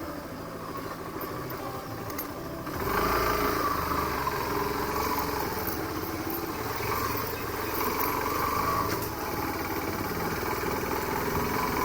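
Motorcycle engine running while being ridden. It gets noticeably louder about three seconds in as the throttle opens, and the engine note rises and falls after that.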